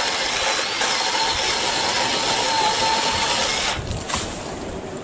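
A BLACK+DECKER 18V battery-powered saw runs with a steady motor whine, then stops about four seconds in.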